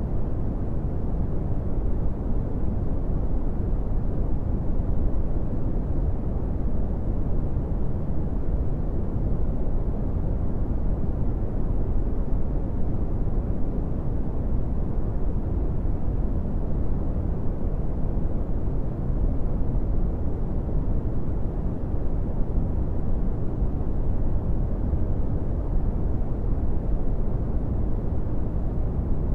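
Brown noise: a steady, deep rumbling hiss with most of its energy in the bass, fading toward the treble, unchanging throughout.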